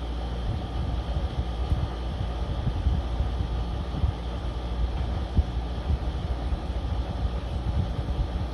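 Window air conditioner running on its medium fan setting: a steady hum with a few faint whining tones over a fluttering low rumble.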